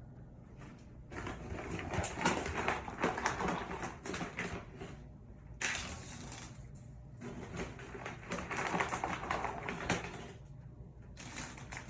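Irregular rustling and crackling with many small clicks, as of something being handled up close, in three spells with short lulls between.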